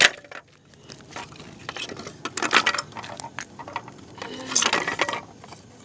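A sharp click, then crackly rustling and clicking in two bursts, about two and a half seconds in and again near five seconds.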